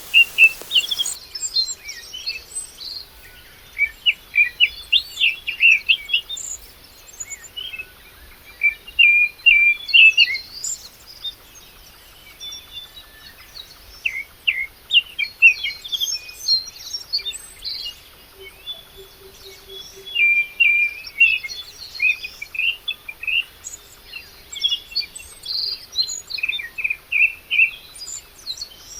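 Songbirds singing: quick runs of short, high chirping notes in phrases a few seconds long, separated by brief pauses.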